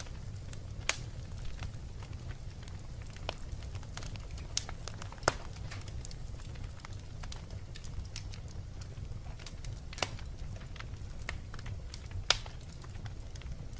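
Wood fire burning in a fireplace, a steady low rumble under irregular sharp crackles and pops, the loudest pops about 1, 5, 10 and 12 seconds in.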